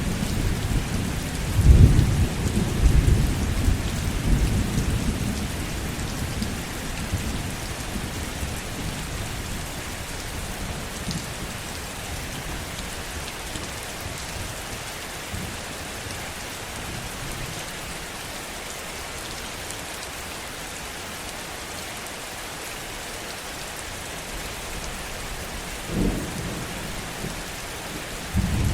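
Steady heavy rain with rolling thunder: a low rumble that swells about two seconds in and dies away over the next few seconds, then only the rain, with a short low thump of thunder near the end.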